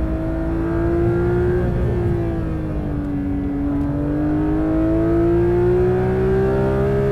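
Porsche 992 GT3's 4.0-litre flat-six pulling under throttle through its lightweight exhaust. The engine note sags a little about three seconds in, then climbs steadily as the revs rise.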